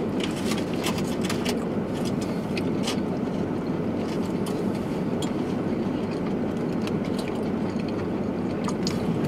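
Chewing and mouth sounds of people eating cheesesteak sandwiches, with small crackles from a foil wrapper. These scattered clicks sit over a steady low rumble inside a car.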